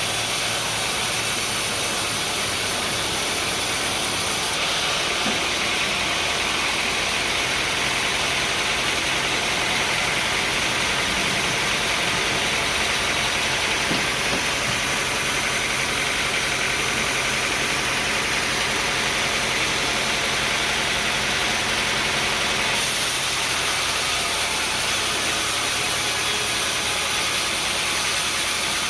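Engine-driven machinery running steadily, with a low hum under a bright hiss. The hiss gets stronger about four and a half seconds in and drops back a few seconds before the end.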